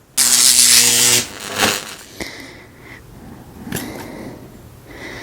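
A loud electric buzz lasting about a second, the zap of a mock defibrillator-style shock sent through leads clipped to a crashed toy drone to revive it. Softer clicks and rustling follow.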